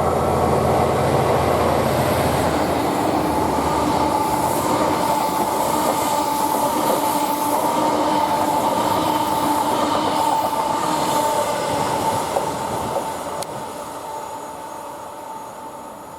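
A train passing: the low drone of the locomotive fades in the first couple of seconds, giving way to the rolling of the coaches or wagons with a steady squeal from the wheels, then the sound dies away over the last few seconds.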